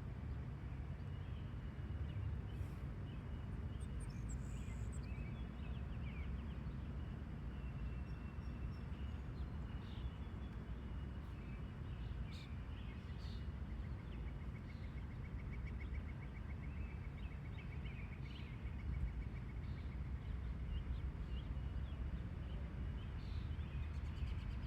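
Outdoor farm ambience: a steady low rumble with songbirds chirping here and there, including a rapid trill of evenly spaced notes lasting a few seconds about midway.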